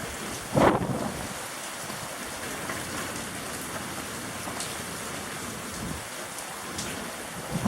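Steady heavy rain falling, with one brief louder rush just under a second in.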